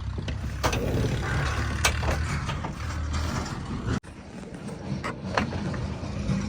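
Heavy machinery engine running with a low rumble, with a few sharp knocks or clanks about a second in, near two seconds and past five seconds. The sound drops out for an instant near four seconds.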